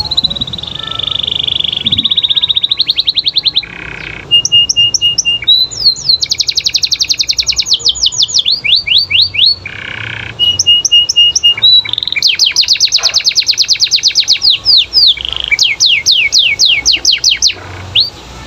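Canary singing a long, loud song of fast trills, strings of repeated short notes and rapid sweeping notes, with brief breaks about four and ten seconds in.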